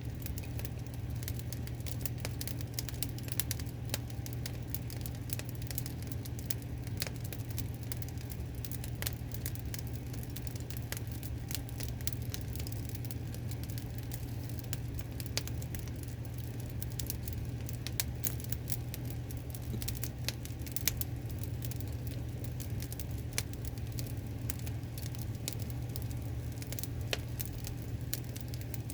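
Wood fire of logs laid crosswise, crackling with frequent irregular sharp pops over a steady low rumble.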